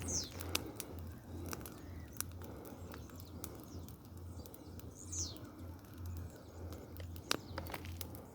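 Bonfire of dry branches burning with scattered sharp crackles and pops. A bird gives a short falling chirp twice, near the start and about five seconds in.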